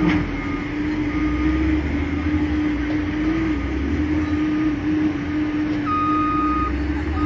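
Steady low mechanical drone with a constant wavering hum, and a few short, faint electronic beeps; the longest beep comes about six seconds in.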